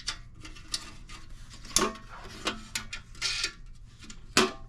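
Metal sluice parts clinking and knocking together as a wing nut is started on a bolt: several sharp metallic clicks with a short ring, the loudest about two seconds in and near the end, with a brief scrape in between.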